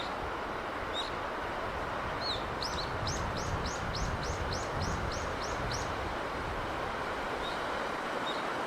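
Steady rushing sea breeze with a small bird calling. About three seconds in, the bird gives a quick series of about a dozen repeated high, rising notes, roughly four a second. Single chirps come before and after.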